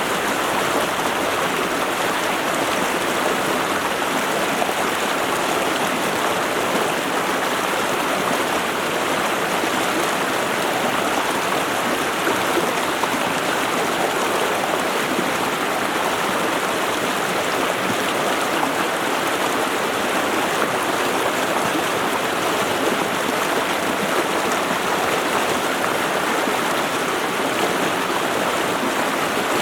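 A mountain creek running over rocks: a steady, even rush of water.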